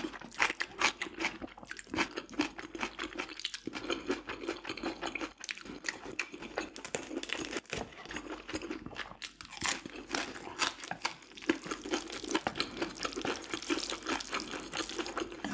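Close-miked eating sounds: wet chewing and mouth smacks, with crunchy bites of food.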